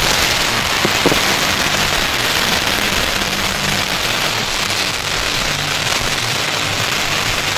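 Large bonfire burning with a steady loud hiss and a few sharp crackles about a second in.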